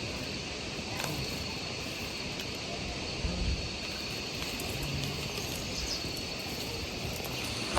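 Outdoor rural ambience with a steady high-pitched insect trill over a faint even hiss, and a faint click about a second in.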